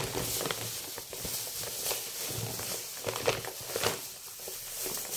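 Plastic shopping bags and meat packaging rustling and crinkling as they are handled, with irregular small crackles and a few soft knocks.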